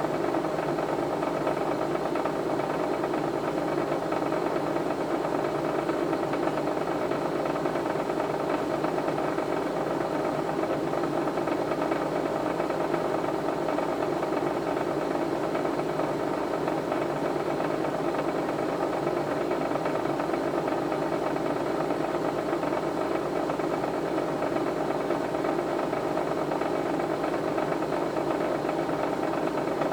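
Steady, unchanging mechanical hum with a fine rattle in it.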